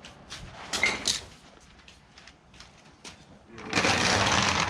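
A few light knocks about a second in, then near the end a loud, continuous scraping as a heavy standby generator is shifted and dragged across its supports.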